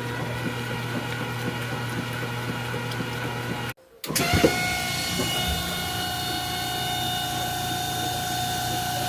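Old washing machine running with a steady mechanical hum. About four seconds in the sound breaks off briefly, then comes a knock and a steady whine made of several high tones: the weird noise the washer now makes.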